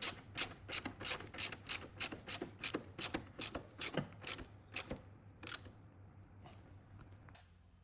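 Hand ratchet wrench clicking in steady strokes, about three clicks a second, stopping about five and a half seconds in.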